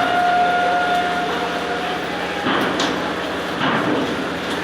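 Steady mechanical running noise with a held whine that stops about two seconds in, then a couple of short clattering, metallic knocks, as of a docking ferry's machinery and ramp.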